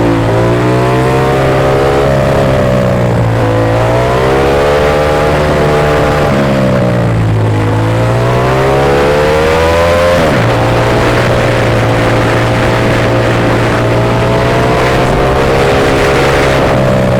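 Ducati Monster S2R's air-cooled L-twin engine under way: its pitch climbs and drops sharply several times, as with throttle and gear changes, dips and rises again in the middle, then holds steady at cruising speed for the last several seconds.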